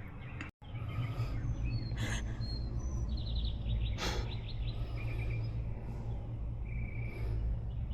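Small birds chirping and trilling several times over a steady low rumble, with two sharp clicks about two and four seconds in. The sound cuts out completely for a moment about half a second in.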